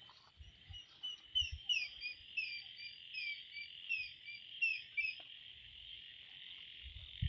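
A hornbill calling: a series of about a dozen short whistled notes, each sliding downward, from about a second in to about five seconds in. Behind it a steady, high-pitched chorus of small frogs calls throughout.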